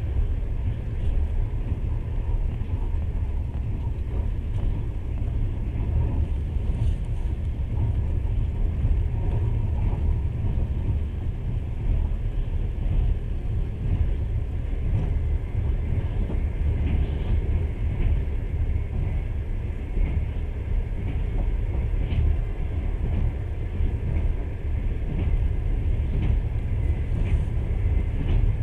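Passenger train running along the track, heard from inside the carriage: a steady low rumble of wheels on rails, with a few faint ticks here and there.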